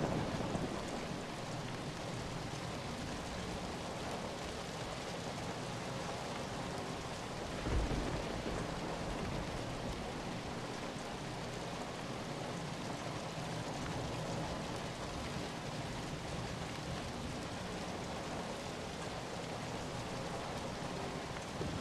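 Steady heavy rainfall, an even hiss of rain on surfaces, with a brief low thump about eight seconds in.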